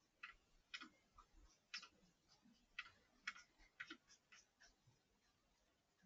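Faint, irregular sharp clicks and ticks, a dozen or so, unevenly spaced, with a few soft low thumps among them. They stop about five seconds in.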